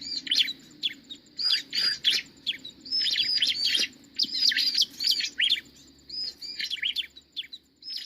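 Ciblek, a small prinia, calling in quick clusters of sharp chirps that arch up and down, two to four notes at a time with short pauses between clusters.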